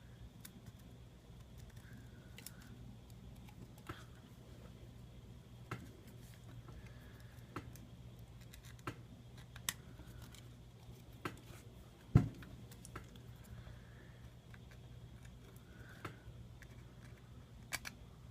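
A small hand tool picking and scraping old adhesive off a phone's frame: scattered light clicks and faint scratching, with one sharper knock about twelve seconds in.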